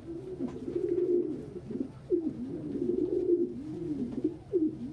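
Several domestic pigeons cooing, with low rising-and-falling coos overlapping almost without a break.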